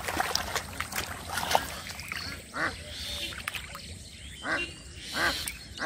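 Ducks quacking: short separate calls, four of them in the second half, with sharp clicks and knocks in the first couple of seconds.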